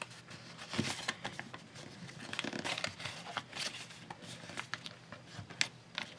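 Sheet of paper being handled, folded and creased by hand: irregular soft crinkles and rustles.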